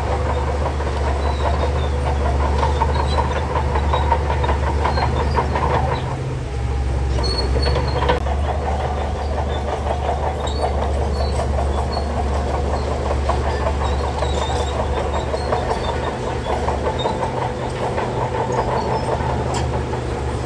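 Shantui DH17C3 crawler bulldozer's diesel engine running under load, with its steel tracks clattering continuously. The engine note dips briefly about six seconds in.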